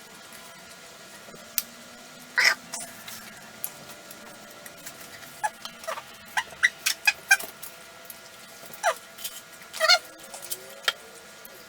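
Close-miked mouth sounds of someone eating tacos: wet chewing and lip smacks as short, irregular clicks, coming in quick runs about halfway through and again near the end.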